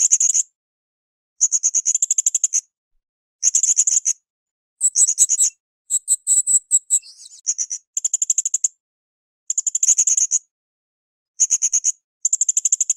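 Blue-crowned hanging parrot (srindit) calling: short bursts of rapid, high, buzzy trilled chirps, about nine in a row with brief gaps between, the phrases a little more varied around the middle.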